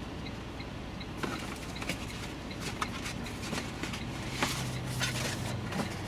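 Drone packaging being handled: scattered plastic and cardboard rustles and clicks as items are lifted out of the box, over a steady low hum.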